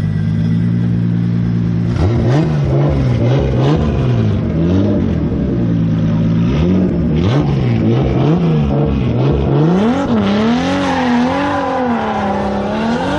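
Drift car engine running steadily, then revved up and down over and over, about once a second. From about ten seconds in it holds higher revs that waver up and down, with more hiss.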